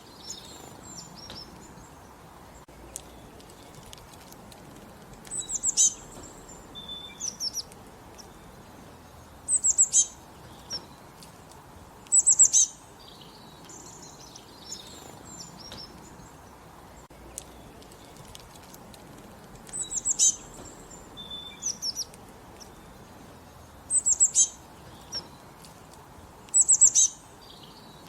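Small songbirds singing: short, high, rapid chirping phrases repeated every few seconds over a faint steady background hiss.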